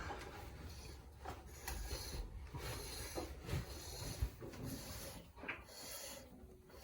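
Foremilk squirted by hand from a dairy cow's teats in a quick series of short noisy strokes. It is the stripping of the first milk before machine milking, done so the milk can be checked for flakes that could signal mastitis.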